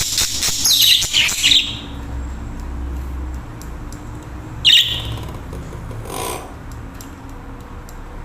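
Budgerigars chirping: a quick run of chirps in the first couple of seconds, then a single sharp chirp just past the middle and a fainter call a little later, over a low steady hum.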